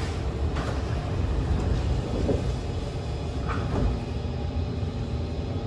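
Kawasaki C151 MRT train car interior: the passenger doors slide shut with a short knock, over a steady low rumble from the train.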